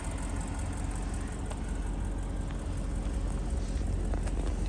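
Audi S6's 4.0-litre twin-turbo V8 idling steadily, a low even rumble with a few faint ticks.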